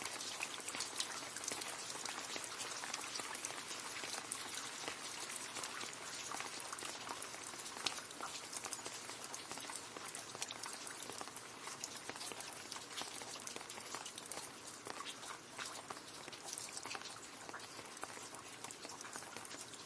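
Steady rain falling into a puddle: a dense patter of many small drop splashes and ticks.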